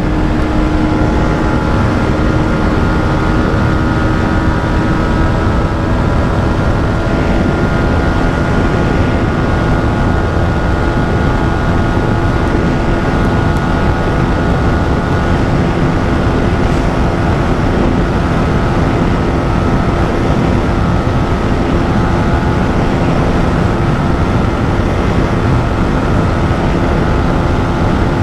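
Yamaha MT-15's 155 cc single-cylinder engine held at steady high revs in sixth gear near top speed, around 130 km/h, its pitch barely changing. Heavy wind rumble from the speed runs under it.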